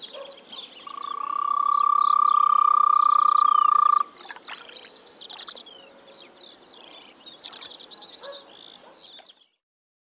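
Frogs calling: one loud, even trill rises in over about a second, holds for about three seconds and cuts off sharply, over a scatter of short, higher pulsed calls. All sound stops shortly before the end.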